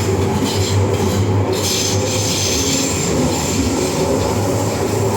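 MTR M-Train electric multiple unit running between stations in the Island Line tunnel, heard from inside the car: a steady rumble of wheels on rail under a constant low traction-motor hum.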